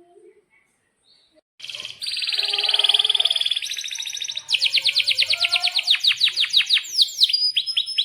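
Domestic canary singing after a short quiet: a fast rolling trill, then a run of rapid, repeated downward-sweeping notes that slow toward the end.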